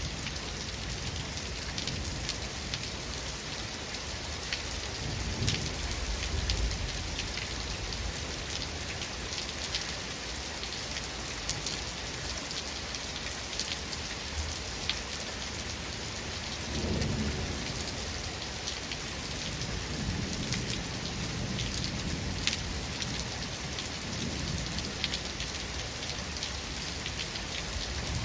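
Steady rain falling on a surface, with individual drops ticking through it. Low rolls of thunder rumble about five seconds in and again around seventeen seconds, with fainter rumbles after.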